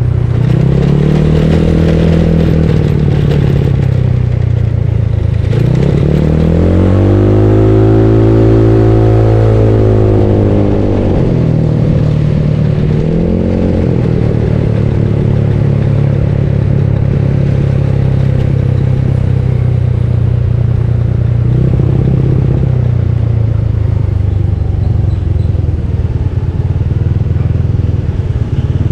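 Bored-up Yamaha Mio scooter's single-cylinder four-stroke engine under way on a ride. The revs rise and fall three times: a short swell, then a longer climb and ease-off, then another short swell. After that it holds a steadier cruising note.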